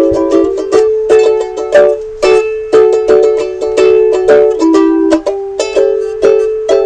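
Ukulele strummed in a steady rhythm, about two to three strums a second, switching between D and A7 chords with no singing.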